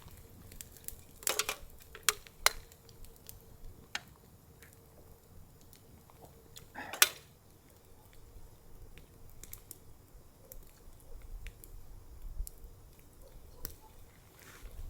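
Sparse light clicks and taps, a few sharper ones in the first few seconds and the loudest about seven seconds in, over a faint steady tone.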